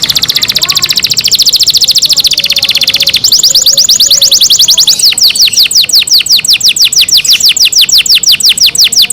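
Domestic canary singing loudly. It opens with a very fast trill of rapidly repeated high notes, and at about three seconds in switches to rolls of downward-sweeping notes that slow to about six a second.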